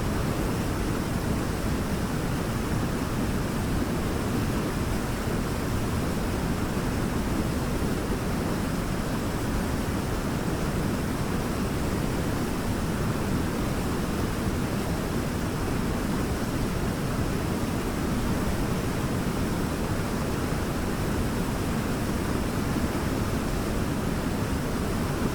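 Waterfall running steadily: an even, unbroken rush of falling water, heaviest in the low pitches.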